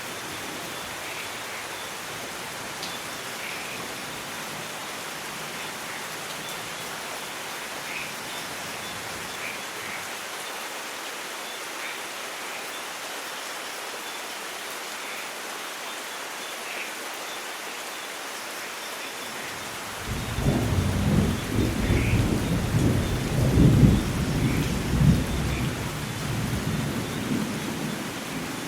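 Steady rain falling, with scattered drips. About two-thirds of the way through, a long roll of thunder rumbles in, swells and slowly fades.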